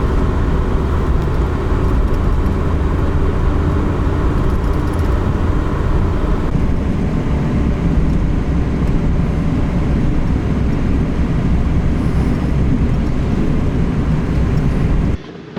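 A car being driven: steady, loud road and engine rumble that cuts off suddenly near the end.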